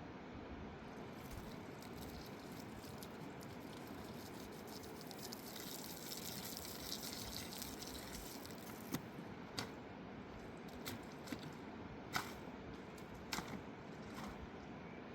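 Wet dripping and squelching sounds over a steady rushing background, with a brief brighter hiss in the middle and a handful of short sharp clicks in the second half.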